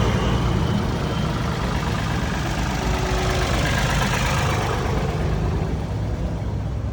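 Tractor engine running steadily at low revs, a dense low rumble with a fast even pulse.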